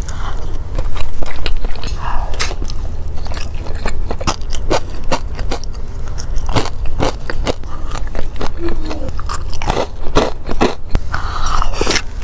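Close-miked eating: crunchy bites and chewing, with a rapid, irregular run of sharp crunches and crackles.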